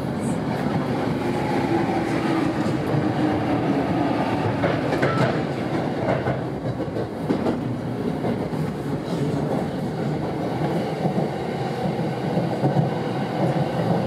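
Sanyo 5000 series electric train heard from inside the car as it pulls out of a station and picks up speed: a steady running rumble, with a few wheel clacks over rail joints about halfway through.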